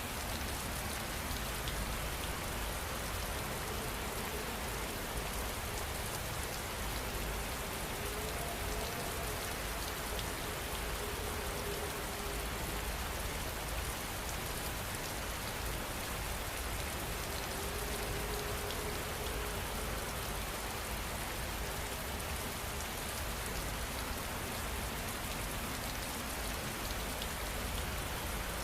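Steady rain falling, an even hiss of many drops at a constant level.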